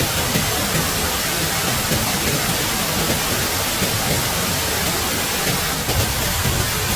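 Steady rushing of water, an even hiss with no rhythm or pitch.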